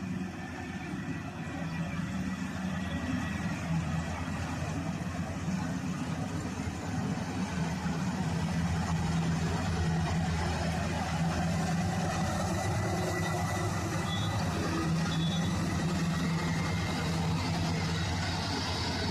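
Maxxi Bimo combine harvester's engine running steadily with a constant hum, getting louder over the first several seconds and then holding steady.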